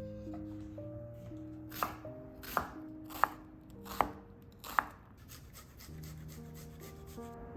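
Five sharp knocks, about one every 0.7 seconds, then a run of faint, quicker ticks, over soft background music.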